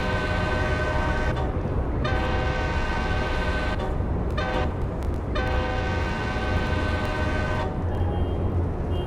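Amtrak locomotive's air horn sounding its chord in the grade-crossing pattern: long, long, short, long. A steady low rumble of the train runs underneath.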